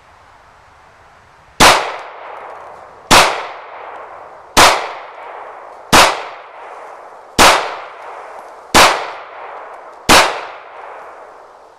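Seven 9mm pistol shots from a Kahr CM9 firing full metal jacket rounds, evenly paced about one and a half seconds apart. Each shot is followed by a short decaying echo.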